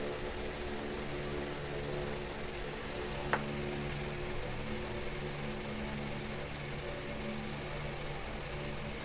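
Steady low hum of a small motor, with one short click about three seconds in.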